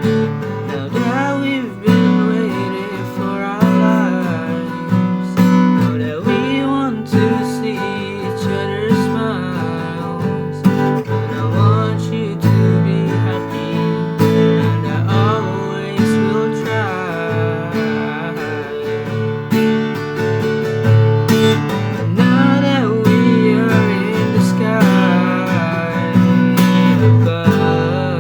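Song passage led by a strummed acoustic guitar, with a wavering melody line over the chords.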